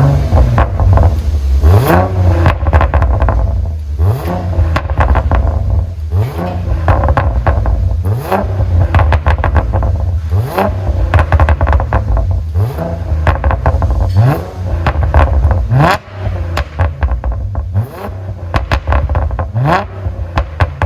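2015 Audi A8L 50 TFSI's supercharged V6 revved in repeated throttle blips, about one every two seconds. Each rev rises and falls off into a rapid series of exhaust pops and crackles, the sign of a pop-and-bang (crackle) engine tune.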